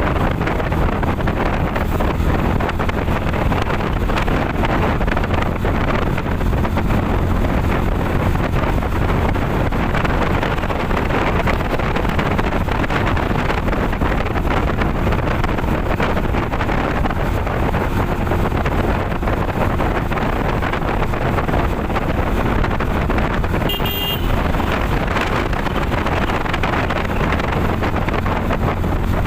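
Wind buffeting the microphone on a moving motorcycle, steady and loud, with road and traffic noise underneath. A brief horn toot sounds near the end.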